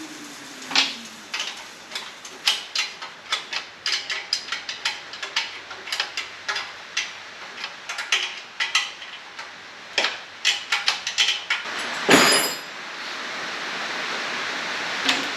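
Irregular metallic clicks and clinks of hand tools on the motorcycle's exhaust fittings, several a second for most of the stretch, with one louder, brief rattling rush about twelve seconds in.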